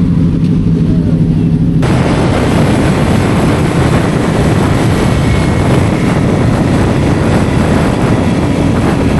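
Motorcycle engine running steadily while riding, then about two seconds in a sudden loud rush of wind noise takes over and drowns it.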